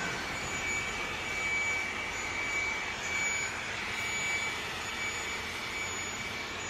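Steady factory-hall machinery noise: an even hiss, with a thin high whine that comes and goes.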